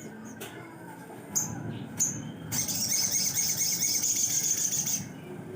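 Sogon birdsong: a few short, sharp high chirps, then about two and a half seconds in a long, fast, high trill that stops suddenly about two and a half seconds later.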